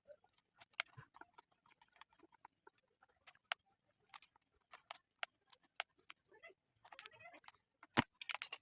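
Irregular small clicks, taps and rustles of stand fan parts being handled and fitted by hand, with a sharper knock near the end.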